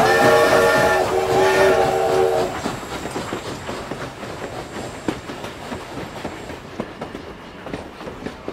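Train whistle sounding two chord-like blasts, then wheels clattering rhythmically over the rail joints, fading away.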